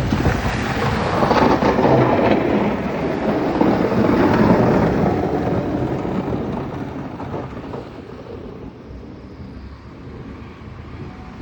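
Blizzard wind rushing and buffeting the microphone. It is loud for the first five seconds or so, then dies down.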